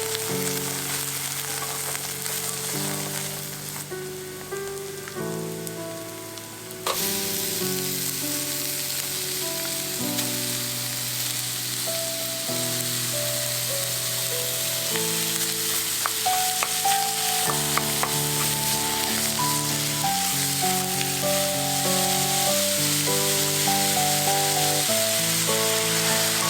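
Food frying in hot oil, a steady sizzle that suddenly gets louder about seven seconds in, under background music with a melody.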